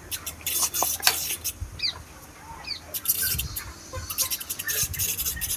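Broiler chickens in a poultry shed: a busy run of sharp clicks and rustles, with a few short high peeps.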